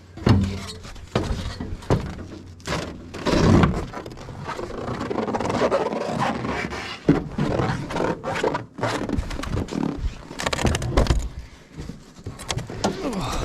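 Irregular knocks, thuds and scrapes of someone handling things around a truck, with a louder thump about three and a half seconds in.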